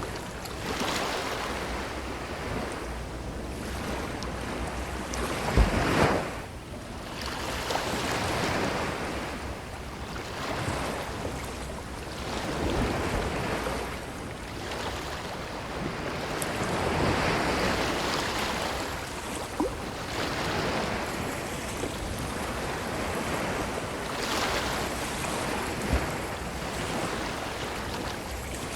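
Ocean waves breaking and washing up a beach, surging and drawing back every few seconds, with the biggest surge about six seconds in. Two brief low thumps sit under the surf.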